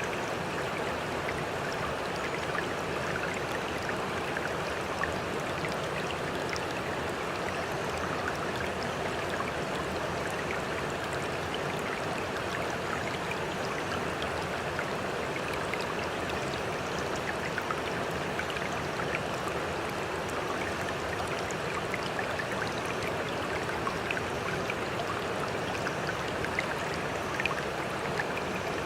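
Steady running water, an even rushing wash flecked with small splashing ticks.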